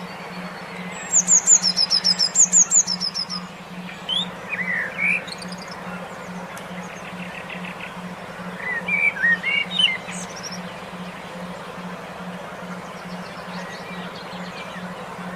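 Songbirds chirping in bursts: a quick run of high, rapidly repeated notes, then shorter phrases of lower notes twice more. Underneath, a low tone pulses evenly several times a second, the brainwave-therapy tone of a bird-stimulation audio track.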